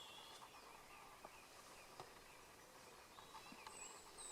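Near silence with faint birdsong: scattered short chirps and whistles from small birds, a few near the start and more towards the end.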